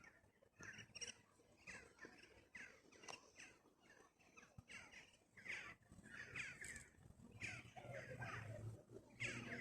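Ruddy shelducks calling faintly: a run of short, falling, harsh calls, two or three a second.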